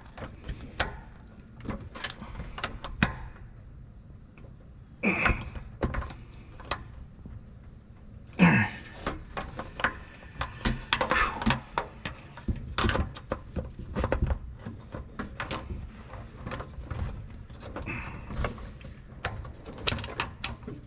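Scattered clicks and knocks, with a louder thunk about five seconds in and another about eight and a half seconds in, from hands working a long Champion spin-on oil filter loose on an aircraft engine.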